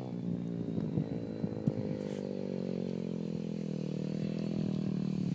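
Pit bike's small engine running at fairly steady revs, with small shifts in pitch, growing gradually louder.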